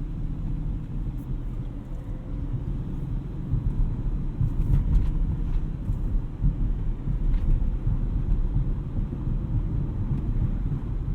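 Audi RS6 Avant's twin-turbo V8 cruising steadily at low revs, with tyre and road rumble, heard from inside the cabin.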